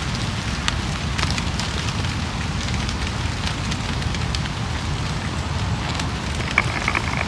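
Steady rain pattering on leaves and ground, with scattered sharp drop ticks. A short high chirp sounds near the end.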